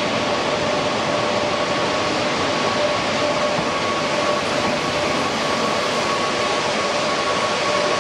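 TGV Duplex HD high-speed trainsets running: a loud, steady rush with two steady whining tones over it.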